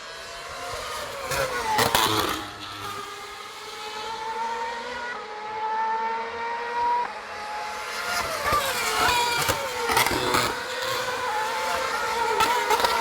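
Racing car engines passing at speed one after another, several at once, their pitch gliding up and down as they go by and change gear.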